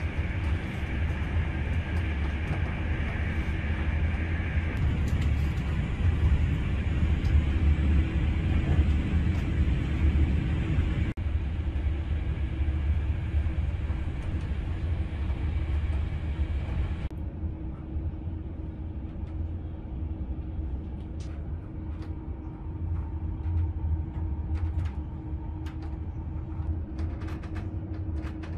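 Passenger train running noise heard from inside the carriage: a steady low rumble with a hum under it. The noise eases about two-thirds of the way through as the train slows into a station, with scattered clicks over the rails.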